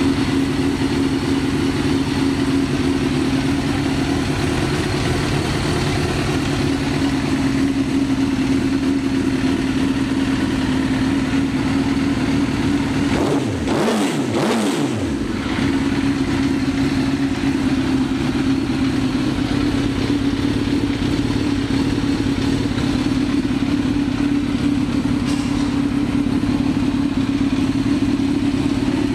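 Suzuki GSX-R1000's inline-four engine idling steadily, with a brief wavering in the sound about halfway through.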